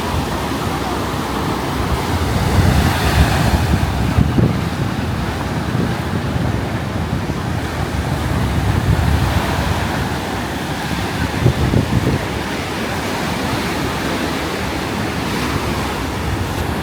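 Ocean surf washing onto the beach, a steady rushing that swells louder a few times, with wind buffeting the microphone.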